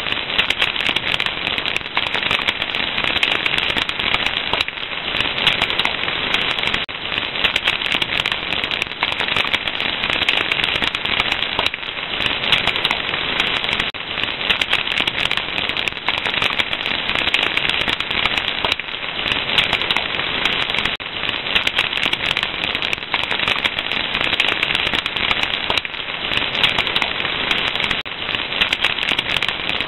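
Fire crackling: a dense, steady run of small pops and snaps over a hiss.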